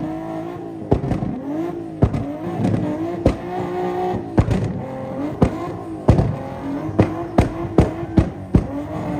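A car revving hard with tyre squeal, the pitch bending up and down, cut through by repeated sharp bangs every half second to a second.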